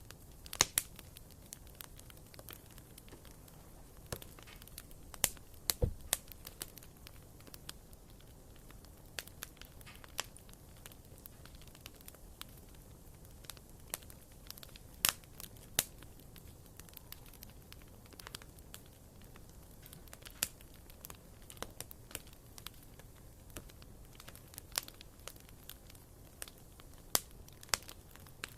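Firewood burning in a fireplace, crackling with sharp pops at irregular intervals over a faint steady hiss.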